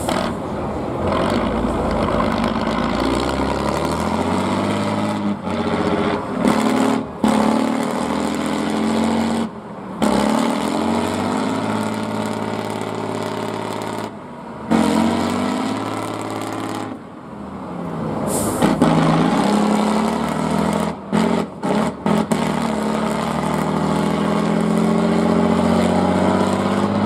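Off-road trial truck engine revving hard over and over, its pitch climbing and falling with each burst of throttle. The sound drops out sharply for a moment several times.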